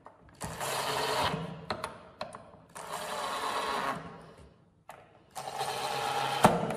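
A small power tool run in three bursts of about a second and a half each, with light clicks and knocks between the bursts.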